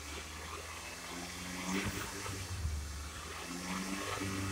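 2004 Toyota RAV4's 2.4-litre four-cylinder petrol engine running in park, held above idle with the revs climbing slightly, heard from inside the cabin.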